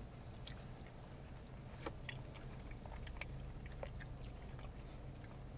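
Quiet chewing of creamy macaroni and cheese, with small scattered mouth clicks over a low steady hum.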